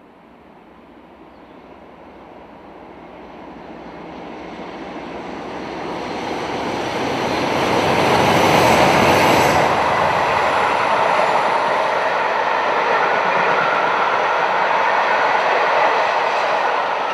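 Class 47 diesel-hauled train approaching and passing, growing steadily louder for about nine seconds, then running past loudly and steadily until it cuts off abruptly.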